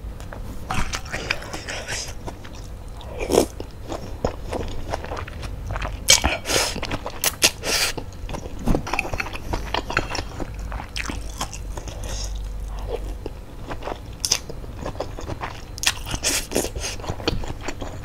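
Close-miked eating sounds: chewing and biting into bakso meatballs and noodles, with irregular wet clicks and smacks of the mouth.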